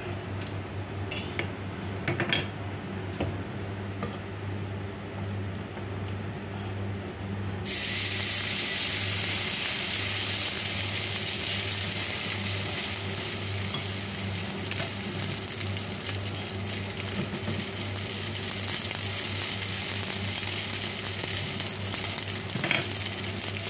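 A wooden spatula taps and scrapes across a flat iron griddle, spreading oil. About eight seconds in, steady sizzling starts as millet-and-vegetable patty batter fries on the hot griddle.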